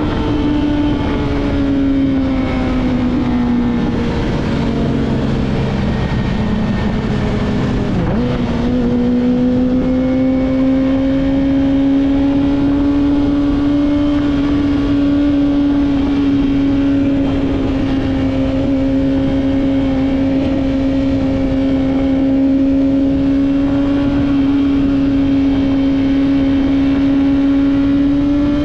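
Yamaha R6 inline-four running through a Two Brothers full-system exhaust while being ridden. The engine note drops over the first few seconds, changes suddenly about eight seconds in, then holds nearly steady as the bike cruises.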